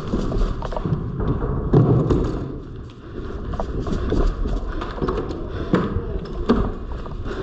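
Footsteps and knocks of gear from an airsoft player on the move, irregular thuds and taps over a steady low rumble.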